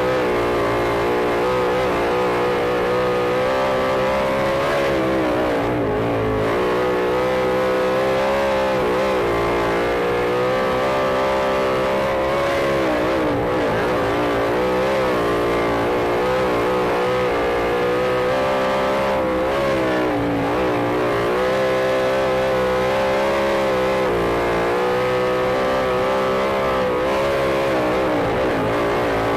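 Sprint car engine running hard at racing speed, its pitch dipping and climbing back about every seven seconds as it backs off and gets back on the throttle around the track.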